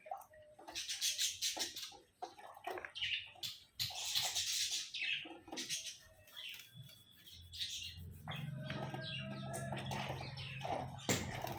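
Alexandrine parakeet flapping and shaking its wet wings in a fluttering rush twice, with short chirping calls between. From about eight seconds in a steady low hum sets in underneath.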